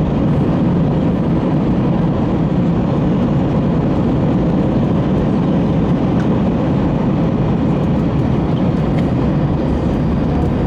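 Steady cabin noise of an Airbus A321 rolling on the ground after landing: a low, even rumble of the wheels and the engines' hum.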